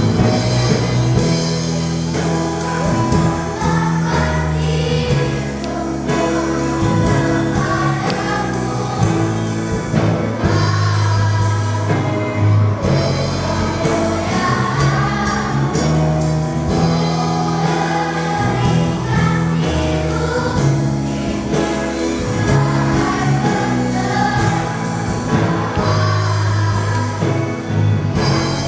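Children's choir singing a hymn of praise with instrumental accompaniment.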